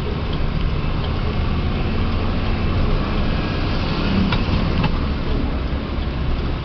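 Truck engine running in stop-and-go traffic: a steady low rumble, with a few short clicks about four to five seconds in.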